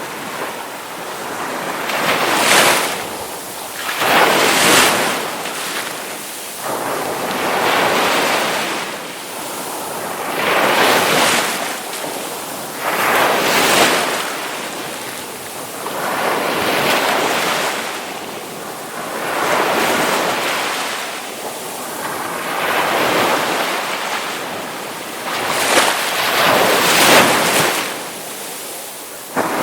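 Ocean waves breaking one after another, the rush of surf swelling and fading every two to three seconds.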